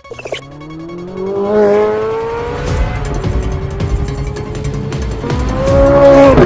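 A car engine accelerating hard, its pitch rising steadily, climbing higher near the end and then dropping suddenly, with music playing alongside.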